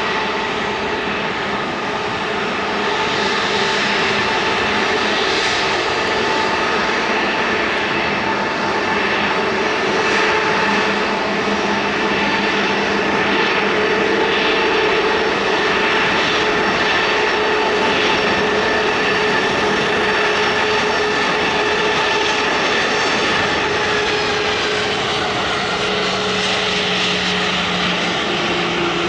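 Airbus A320neo's CFM LEAP-1A turbofan engines running: loud, steady jet noise with several held whining tones. The higher tones dip slightly in pitch about 24 seconds in.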